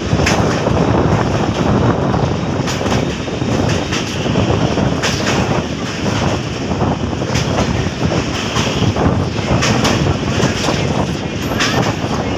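Passenger train crossing a steel truss rail bridge: a steady loud rumble and clatter of the wheels and coaches on the bridge, with scattered sharp clanks.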